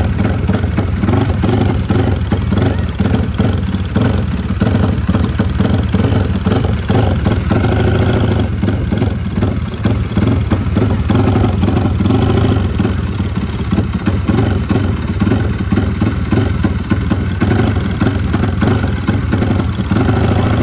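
Race-built Yamaha Vixion motorcycle's single-cylinder four-stroke engine running loudly at idle, with small changes in engine speed.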